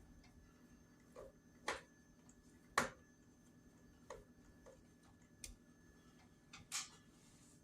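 Irregular light clicks and taps of hand tools and plastic parts being handled while a Kirby vacuum is taken apart, about seven in all, the sharpest about three seconds in.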